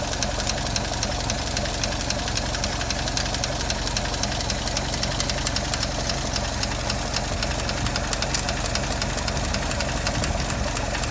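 1931 Pontiac flathead six-cylinder engine idling steadily with a rapid, even ticking from the valvetrain: valve lifter noise.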